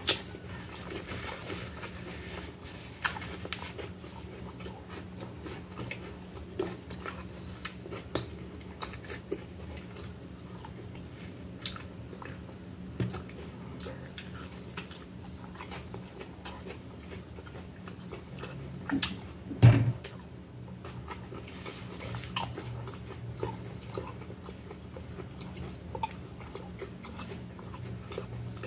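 Close-up mouth sounds of a person biting and chewing a toasted salami sandwich, with short crisp crunches of the pressed bread scattered throughout. A single louder knock comes about two-thirds of the way in, over a low steady hum.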